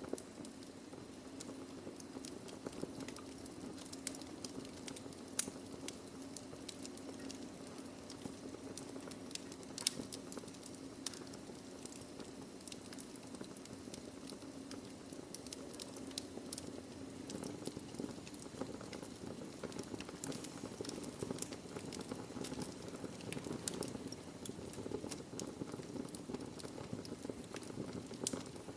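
Wood fire burning in a fireplace: logs crackling with scattered sharp pops over a steady low rush of flame, one louder pop about five seconds in.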